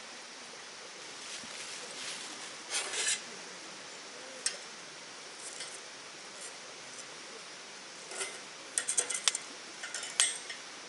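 Small objects being handled: scattered clinks, taps and short rustles, loudest in a cluster near the end, over a steady background hiss.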